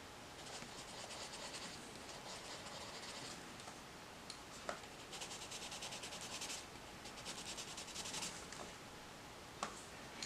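Coloured pencil shading on paper: quick, light back-and-forth strokes scratching in spells of a second or so, with short pauses between them.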